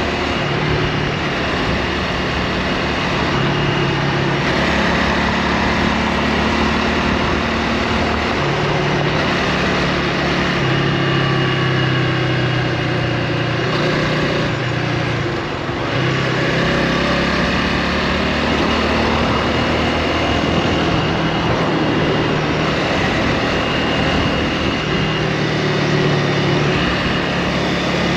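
Honda Rebel 300's single-cylinder engine running under way, its note shifting in pitch several times with a brief dip about halfway through, over wind noise on the microphone.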